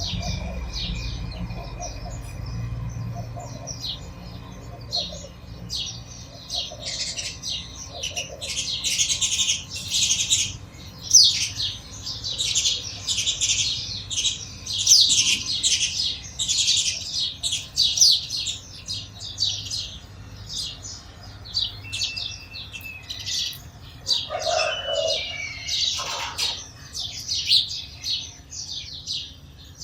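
A flock of sparrows chirping: many short, quick, overlapping chirps without pause. A brief lower-pitched sound comes in near the end.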